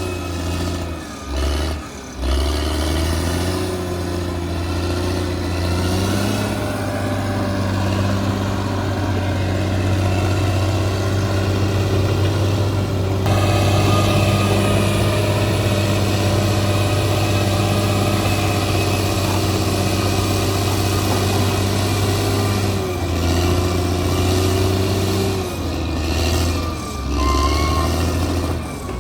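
Bulldozer's diesel engine working steadily, its engine speed dipping and picking up again a few times.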